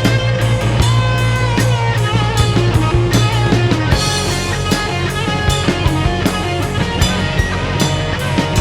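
Live rock band playing an instrumental passage: drum kit keeping a steady beat under electric guitar lines and bass, with no singing.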